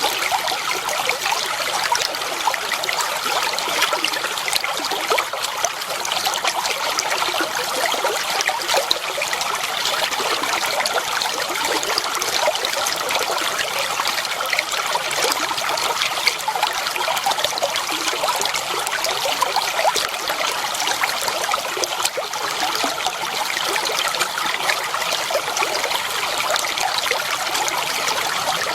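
Clear water flowing and trickling steadily over rocks in a shallow stream, with a constant babble of small splashes.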